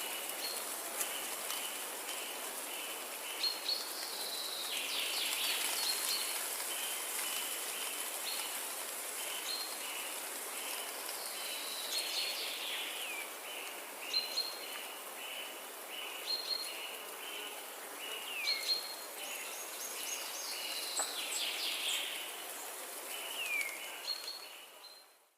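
Forest ambience: birds calling, with a long run of short repeated chirps and several falling whistled notes over a steady high insect hiss. The sound fades out at the very end.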